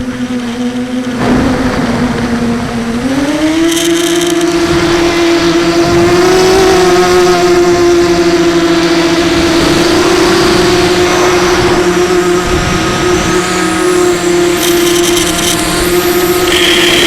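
Brushless motors and propellers of a 250-size FPV quadcopter in flight, a steady whine with a rough undertone. One Sunnysky 2204 motor is running on a shelled-out bearing. The pitch drops right at the start and climbs back up about three seconds in, then holds steady.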